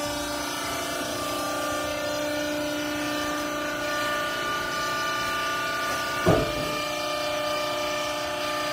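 Vertical textile baler's motor running with a steady hum and whine, with one sharp thump about six seconds in.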